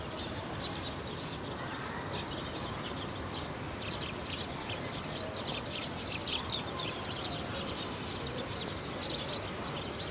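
Small birds chirping: many short, high, sharp chirps, thickest in a flurry around the middle, over a steady background hiss.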